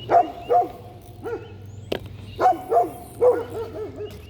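An animal calling repeatedly: about seven short, pitched, arching calls, several coming in quick pairs. A sharp click falls about two seconds in.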